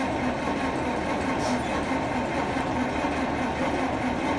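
John Deere 4020 six-cylinder diesel being cranked by its starter in the cold, turning over with a steady rhythmic chug but not catching.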